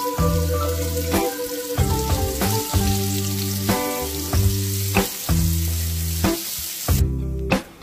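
Chopped onion, garlic, peppercorns and bay leaf sizzling in hot oil in a stainless steel pot, stirred with a wooden spoon, under background music. The sizzle cuts off suddenly about seven seconds in, leaving the music.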